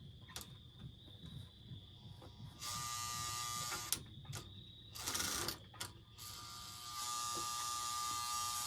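Lionel 1666 toy steam locomotive's electric motor and gears running with a steady buzz as it starts pulling a train of cars on three-rail track. It runs in two stretches, from about three seconds in and again from about six seconds in, with a short burst in between.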